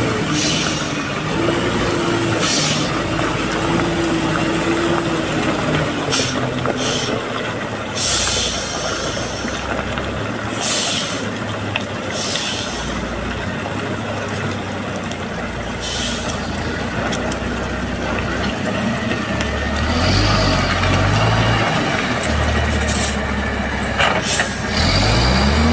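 Overloaded dump truck's diesel engine labouring under load, with short sharp hisses of air-brake releases every few seconds. From about 20 seconds in, the engine note rises and falls.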